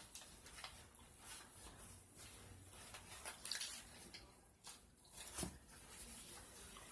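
Chewing a lettuce-wrapped bean burger: irregular crisp crunches of lettuce, with a couple of louder ones in the second half.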